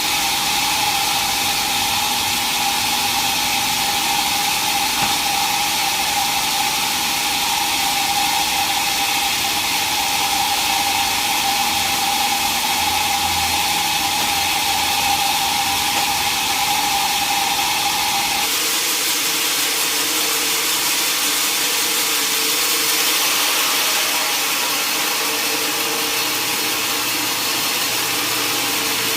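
Sawmill saw running steadily through a mahogany log, a loud machine noise with a steady high whine; about two-thirds through, the whine stops abruptly and the noise changes to a different steady running sound.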